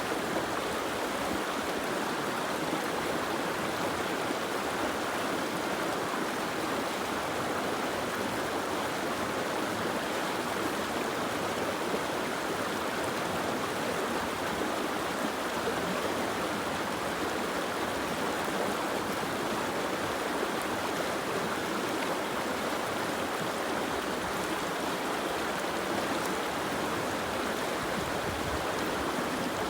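Soft rain falling steadily: an even, unbroken hiss of water.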